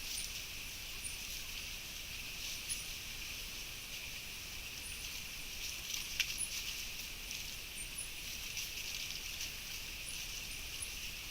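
A steady high-pitched insect chorus, with short high chirps repeating every second or so and a brief click about six seconds in.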